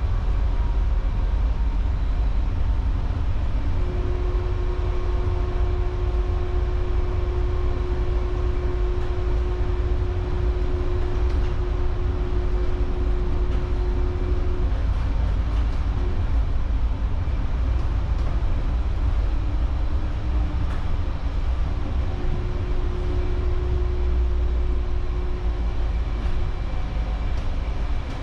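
Taipei Metro Brown Line rubber-tyred driverless train running along its guideway: a steady low rumble, with a steady humming tone that comes in about four seconds in for roughly ten seconds and returns briefly near the end.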